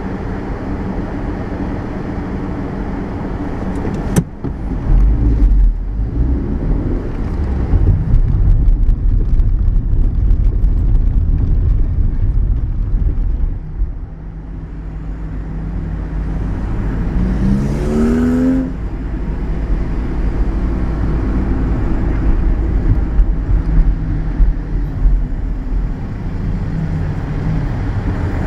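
Car engine and road noise heard from inside the car: the engine idles with a steady hum, then the car pulls away about four seconds in and the low noise grows much louder. Around eighteen seconds the engine revs up in a rising whine as it accelerates.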